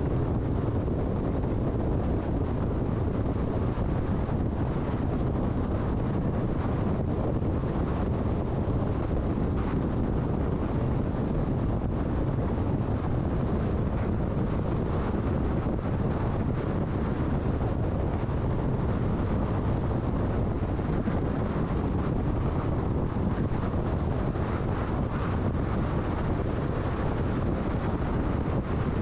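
Steady road and wind noise of a car travelling at freeway speed: an even, low rumble that doesn't change.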